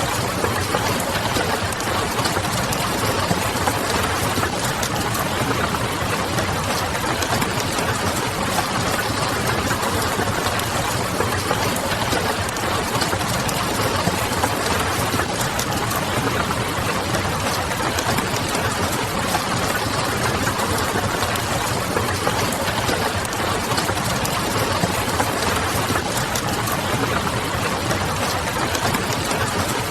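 Steady rain hiss mixed with the small crackles of a wood fire, over a low even hum.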